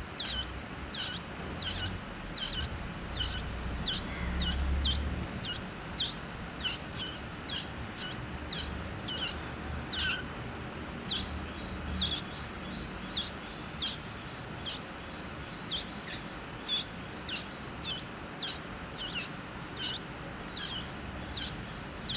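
Nestlings' begging calls: short, high, downward chirps repeated about twice a second without a break. The chicks are hungry and gaping for food.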